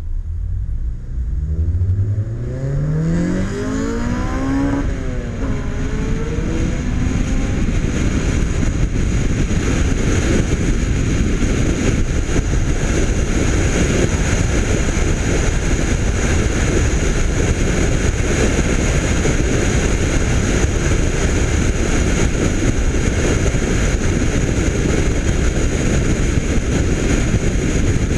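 Honda Civic Si sedan's 2.0-litre i-VTEC four-cylinder with bolt-on parts, pulling hard from a stop: the engine note rises steadily for about five seconds, drops at a gear change and climbs again briefly, then gives way to steady wind and road noise at cruising speed.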